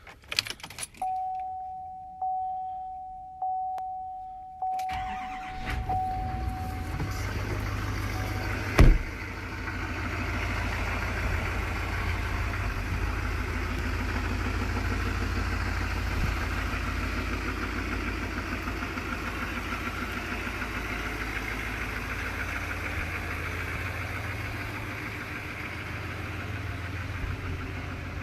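A warning chime dings about once every second, and then a 2019 Chevy Silverado 2500HD's 6.6-litre Duramax L5P V8 turbo-diesel cranks and fires on a cold start about five seconds in. A single loud thump comes a few seconds later, and the diesel then idles steadily.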